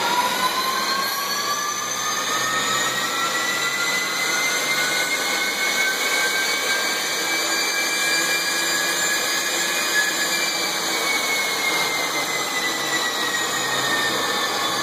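Garrett F109 turbofan being spun by its starter for a cool-down run. Its whine rises over the first couple of seconds, holds steady, then sinks slightly near the end, over a steady rush of air through the fan.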